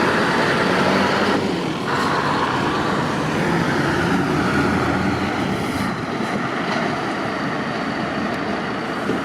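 Heavy lorry engine running amid steady motorway traffic noise, easing off slightly toward the end.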